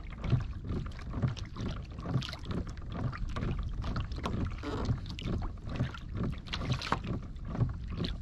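Water lapping and slapping against a small boat's hull in quick, irregular splashes over a steady low wind rumble on the microphone.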